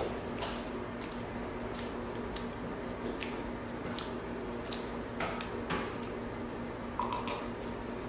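Close-miked chewing of soft cream-filled macarons: wet, squishy mouth sounds with small clicks scattered throughout, over a faint steady hum.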